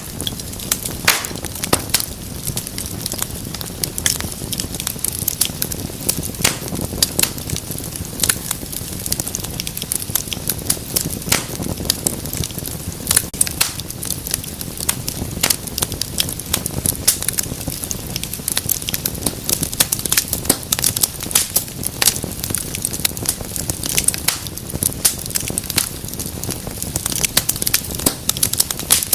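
Wood fire in a fireplace crackling steadily, with frequent sharp, irregular pops over a low, even rush of flame.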